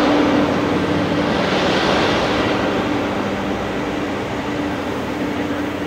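LHB luggage, brake and generator power car of a departing train rolling slowly past. Its diesel generator sets give a steady hum over a broad rushing rail noise that swells about two seconds in and then eases slightly.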